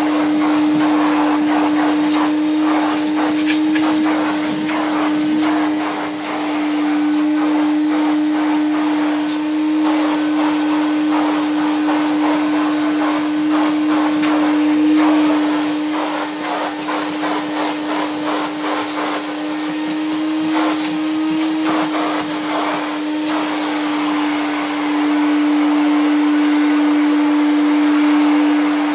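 Vintage 1968 Progress Super 90 vacuum cleaner's 700 W motor running steadily with a constant high hum, while frequent little clicks and crackles come through as it is worked over carpet. The motor bearings are tired with age, according to the owner.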